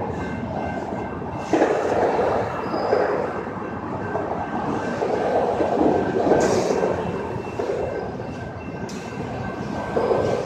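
Continuous noise of a moving vehicle, with a few faint steady high tones and a sudden rise in level about one and a half seconds in.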